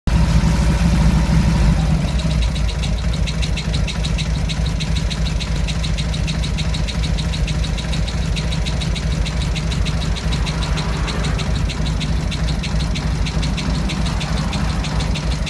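Motorcycle engine idling steadily, with a fast, even, high-pitched ticking 'shako-shako' noise setting in about two seconds in. It is the abnormal noise that appears after high-speed riding or hard revving on mountain roads.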